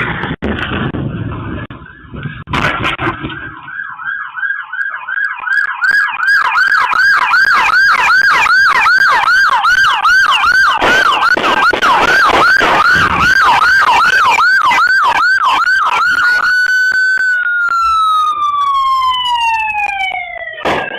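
Police car siren in rapid yelp, about four sweeps a second, that holds one tone and then winds down in a long falling wail near the end. Sharp cracks of gunfire go off through it during the shootout.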